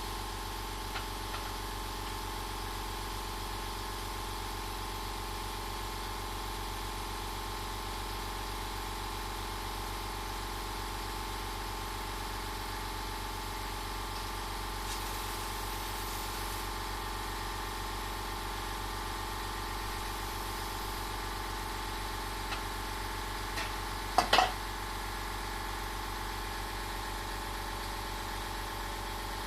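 A motor or engine running steadily with an even, unchanging hum, with a few sharp clicks about 24 seconds in.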